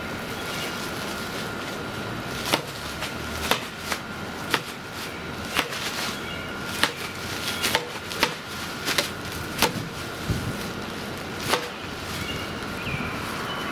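A sandbag full of wheat heads being slammed down on a table again and again, about a dozen dull thuds at uneven intervals of roughly half a second to a second, threshing the grain from the chaff.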